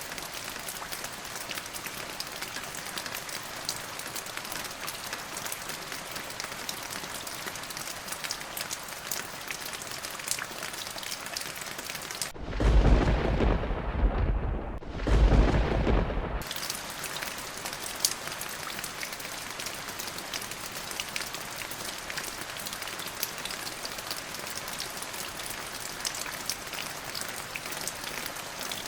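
Steady rain falling. About twelve seconds in, a rumble of thunder comes in two surges over about four seconds, and the rain's hiss drops out while it lasts, then the rain carries on.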